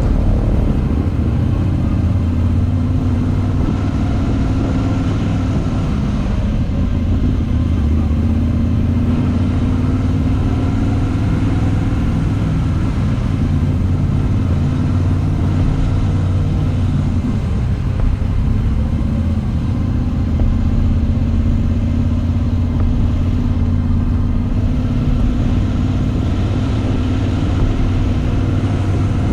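Moto Guzzi V85TT's air-cooled V-twin engine running steadily under way, its note dipping briefly and picking up again a few times.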